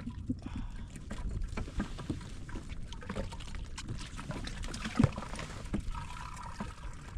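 Scattered knocks and handling clatter on a fishing kayak over a low rumble of wind and water, with one sharper knock about five seconds in.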